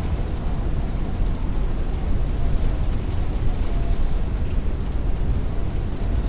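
Heavy rain beating on a window with strong wind, a dense steady noise with a deep rumble underneath.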